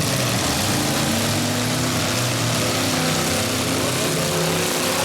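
Several demolition derby car engines running at once, their pitches rising and falling as the cars rev and move, over a steady wash of noise.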